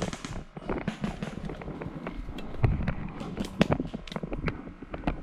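Airsoft guns firing: scattered sharp single pops at irregular intervals, some louder and closer than others.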